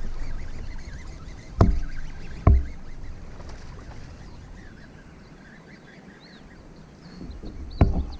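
Hollow knocks on a fishing kayak's plastic hull, two about a second apart and one more near the end, each with a short ringing tone, as the angler plays a hooked bass. Faint bird chirps in between.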